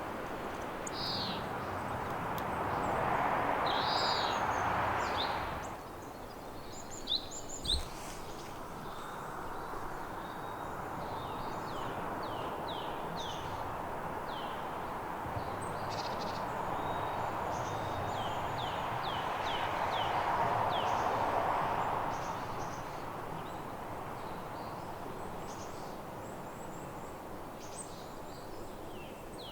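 Small songbirds calling with many short, high, falling notes, some in quick runs, over a rushing hiss of wind or water that swells twice. Two sharp knocks about seven seconds in.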